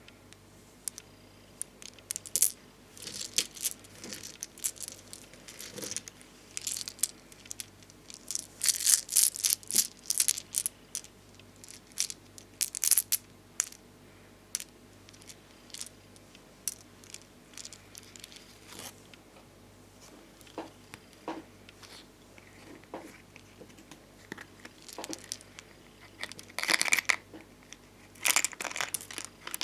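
Close-up handling of thick domed bonbon drop and ohajiki stickers and their plastic-backed sheets: crisp clicks, peeling and crinkling rustles. The sounds come in dense clusters through the first half and again near the end, with only scattered clicks in between.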